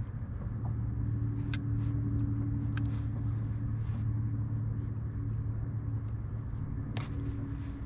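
Boat motor running steadily with a low, even hum, with a few sharp clicks and knocks over it.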